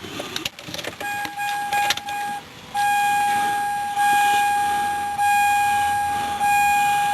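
Dodge Durango's electronic warning chime sounding as one steady tone, then repeating about every second and a bit, each tone fading slightly, as the vehicle gets power from a jump box.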